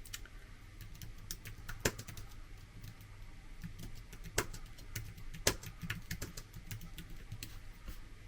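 Typing on a computer keyboard: irregular keystrokes and clicks, a few of them louder, as a search is made.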